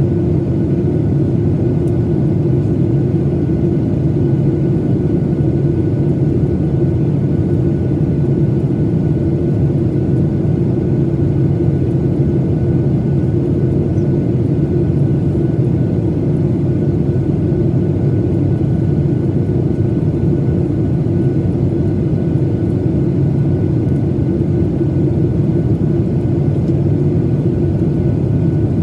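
Steady cabin drone of a Boeing 737-900ER airliner in flight, the low rumble of its jet engines and rushing air heard from inside the cabin, unchanging throughout.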